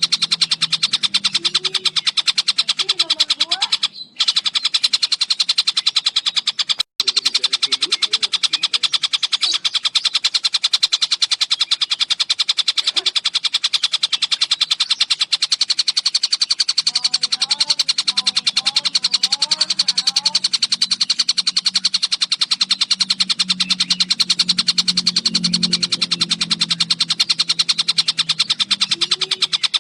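Recorded call of the tengkek buto kingfisher: a fast, continuous, high rattling trill, cut briefly twice in the first seven seconds.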